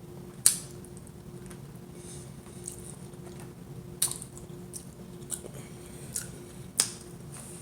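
Close-miked chewing of shrimp Alfredo pasta, with three sharp clicks of a fork against a plate and a few lighter taps.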